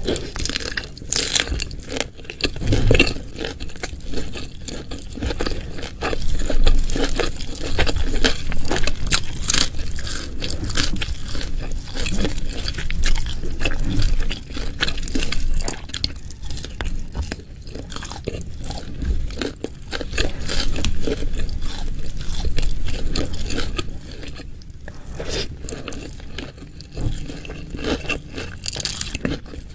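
Close-miked eating: crunchy bites and steady chewing, with dense irregular crackles and mouth sounds throughout, a little quieter near the end.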